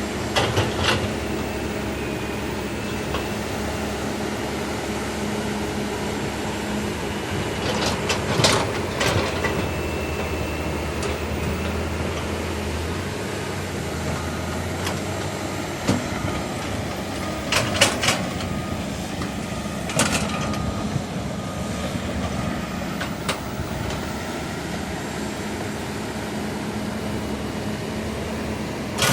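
Caterpillar 315 hydraulic excavator's diesel engine running steadily, with a few sharp knocks and clanks from the machine at work, in clusters about a third and two thirds of the way in.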